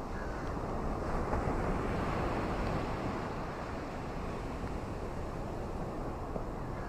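Ocean surf washing on a beach: a steady rush of water that swells louder about a second in and eases off again.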